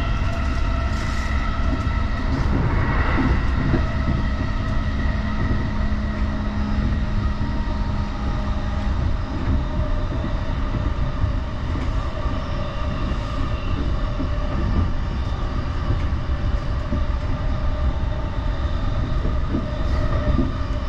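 Electric commuter train running, heard from inside the passenger car: a steady low rumble of wheels on rail under a motor whine held at a few steady pitches, with a low hum dropping away about nine seconds in.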